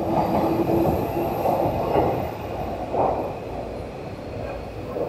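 Orange-striped electric commuter train running over an elevated railway viaduct: a dense rumble with a faint steady hum, loudest at first and slowly fading as it passes.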